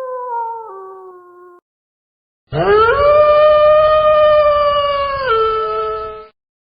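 Canine howling: the end of one howl steps down in pitch and fades out, then after a pause of about a second a long howl rises at the start, holds steady and drops in pitch near its end before stopping.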